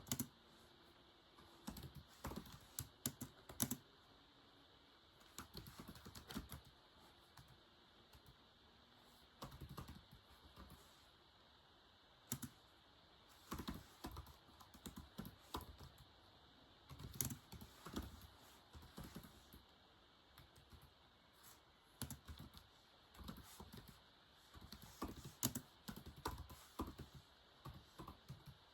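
Typing on a keyboard: key clicks come in short, uneven runs separated by brief pauses.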